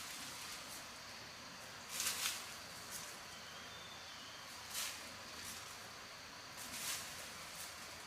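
Steady hiss of rain in a forest, with a few short rustles over it, about two seconds, five seconds and seven seconds in.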